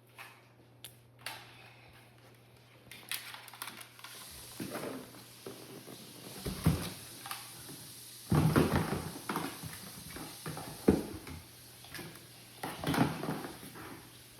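Irregular knocks, clicks and short scrapes of plastic robot-vacuum chargers being handled and packed into a container, loudest about halfway through, with a sharp click near the end.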